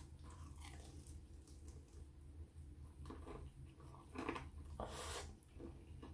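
A person biting into and chewing a fried chicken wing, mouth noises close to the microphone, loudest about four to five seconds in.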